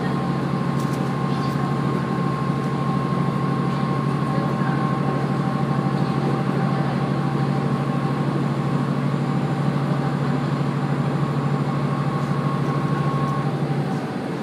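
Diesel railcar heard from on board while running: a steady engine drone with a thin whine above it, both easing off near the end as the power drops.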